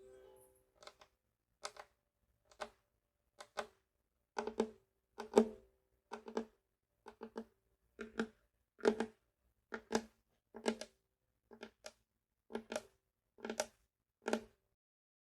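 Fingertips tapping the wooden body of a ukulele in a slow, uneven rhythm: short hollow knocks, a little more than one a second and often in quick pairs, stopping shortly before the end.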